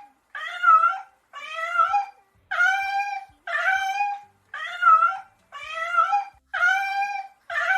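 An animal's meow-like cries repeated eight times, about one a second, each a short pitched wail.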